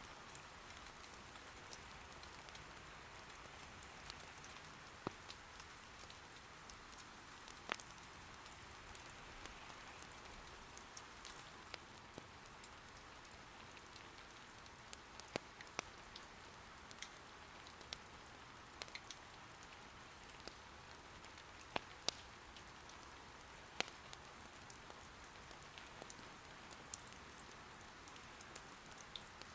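Soft, steady rain patter, with sharp clicks and pops dotted irregularly through it.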